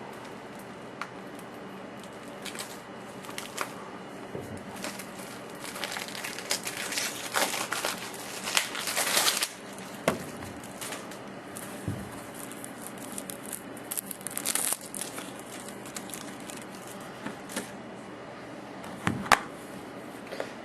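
Plastic shrink-wrap crinkling and tearing as it is pulled off a Blu-ray case, in two longer stretches, with a few sharp clicks of the plastic case being handled.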